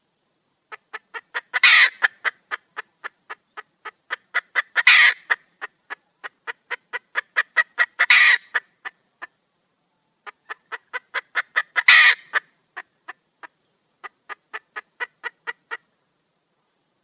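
Red junglefowl hen calling for a mate: runs of short clucks, about four a second, each run rising to a loud harsh squawk, four times over, then a last run of clucks without one.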